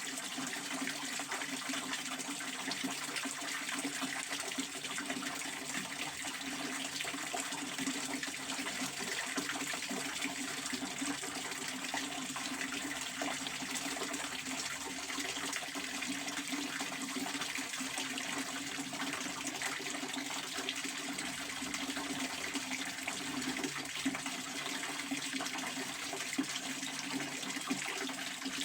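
Pond water fountain splashing steadily, a continuous rush of falling water with no let-up.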